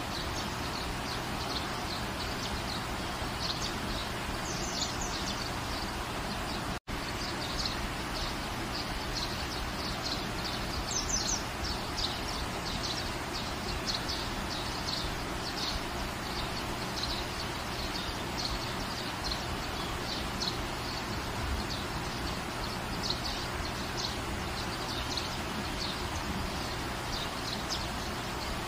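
Steady rain falling on a garden, with birds chirping in short repeated calls over it. The sound drops out for an instant about seven seconds in.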